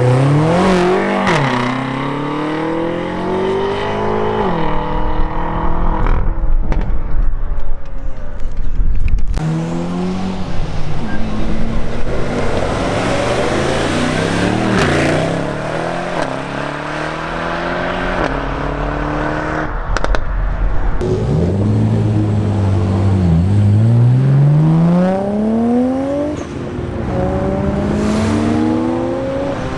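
Several modified performance cars in turn, their engines revving and accelerating away, with repeated rising pitch sweeps that drop back at each gear change. A deep low rumble runs for a few seconds partway through.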